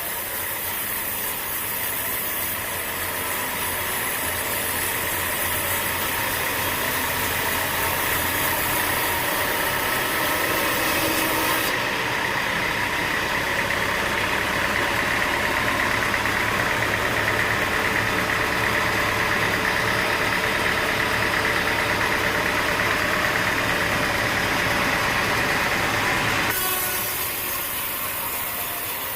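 Sawmill machinery running steadily, a motor with a high steady whine. It gets louder from about twelve seconds in, then changes abruptly near the end.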